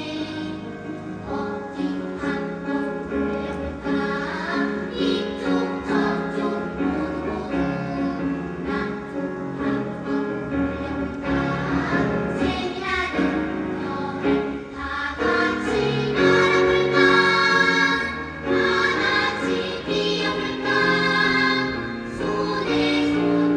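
A children's choir singing in several sustained, shifting notes, growing louder about two-thirds of the way through.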